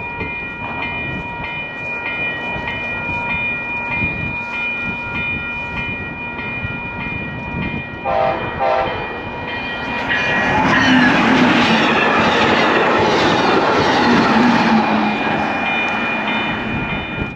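Amtrak Hiawatha passenger train approaching and passing. It starts with a steady high ringing, gives a few short horn notes about eight seconds in, then goes by loudly with wheel clatter and engine noise from about ten seconds in.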